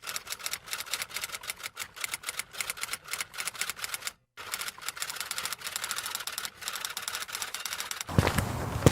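Typewriter keys clacking in a rapid, uneven run of keystrikes, broken by a short pause about four seconds in. Near the end a different, noisier sound takes over.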